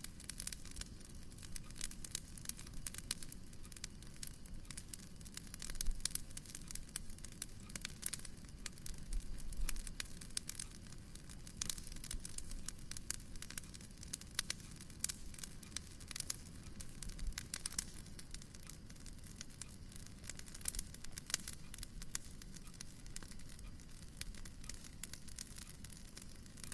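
Wood fire in a fireplace crackling and popping: irregular quick snaps over a low, soft rumble.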